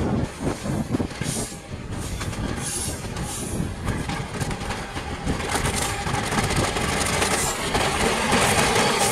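Bangladesh Railway diesel-electric locomotive hauling a passenger train past at close range: the engine runs as it approaches, then the coaches roll by with a rising rumble of wheels on the rails, louder in the second half.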